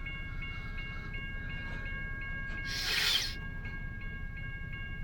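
Freight train rumbling low and steady, with a set of high steady tones pulsing about twice a second above it. About three seconds in, a short loud hiss lasting about half a second.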